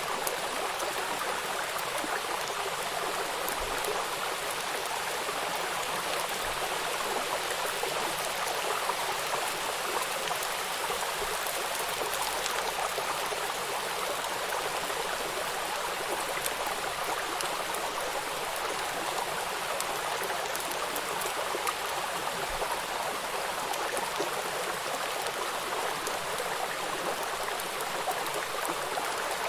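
Steady rush of a flowing river with rain falling on the water, small raindrop ticks scattered through the even wash.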